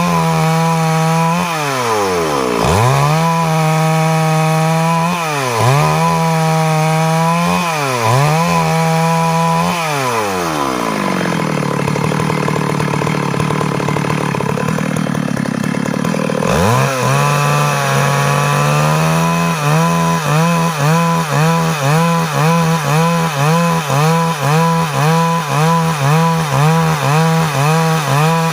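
Stihl MS 382 two-stroke chainsaw running hard while cutting wood, its engine pitch dipping and recovering every couple of seconds. About ten seconds in it holds a lower, steadier note; near the middle it dips sharply, then settles into a fast wavering about twice a second.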